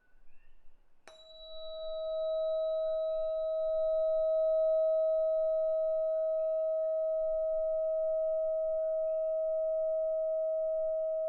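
A 639 Hz Solfeggio tuning fork struck once about a second in, then ringing a steady pure tone. A faint high overtone fades over the first few seconds.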